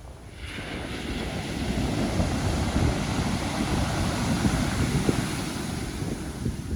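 Pacific Ocean surf: a wave breaks and washes in as a rushing hiss that swells about half a second in and fades near the end, over a low rumble of wind on the microphone.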